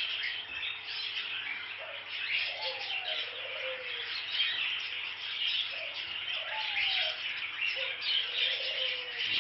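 A colony of caged budgerigars chattering and chirping continuously, with a few lower calls sliding down in pitch now and then.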